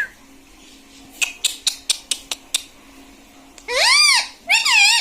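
Ringneck parrot making a run of light clicks about a second in, then two pitched calls near the end: a long one that rises and falls, and a shorter, wavering one.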